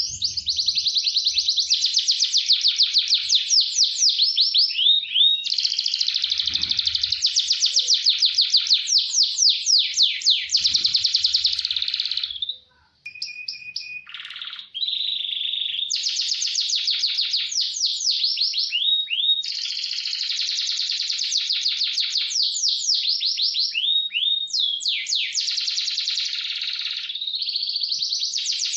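Domestic canary singing long, fast rolling trills of rapidly repeated high notes, with a brief break about twelve seconds in.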